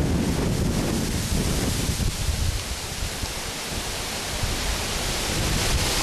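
Strong gusting wind from Hurricane Irene rushing steadily and buffeting the microphone, with heavy low rumble for the first couple of seconds that then eases.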